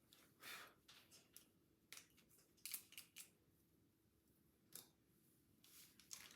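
Scissors snipping through hair in a run of soft, irregular snips.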